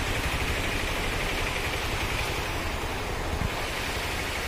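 Heavy rain falling steadily, a constant hiss of downpour on the ground and roofs, with a soft low thump about three and a half seconds in.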